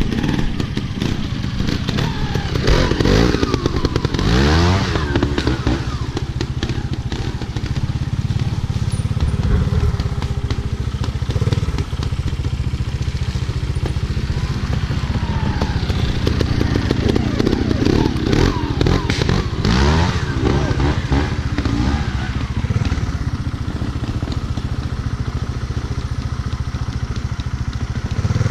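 Motorcycle engine being ridden, revving up and down repeatedly, its pitch rising and falling several times.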